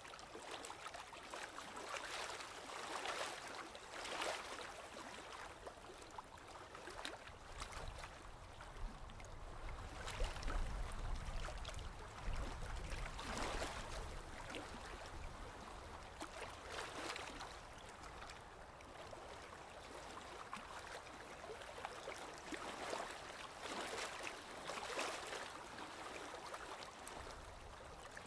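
Sea waves washing in and draining back, a new surge every few seconds, with a deeper rumble from a heavier wave about halfway through.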